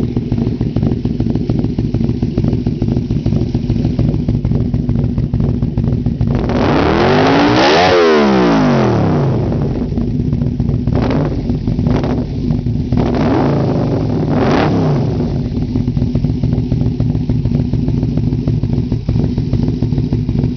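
Yamaha Vmax V4 motorcycle engine breathing through an aftermarket 4-into-1 exhaust, idling, then revved up and back down once about six seconds in, followed by several quick throttle blips before it settles back to idle.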